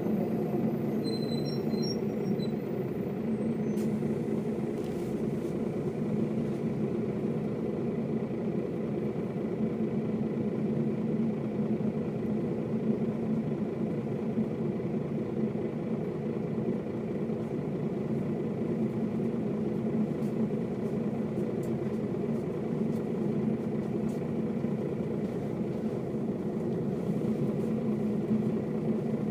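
Mercedes-Benz O407 bus's six-cylinder diesel engine running steadily as the bus drives along.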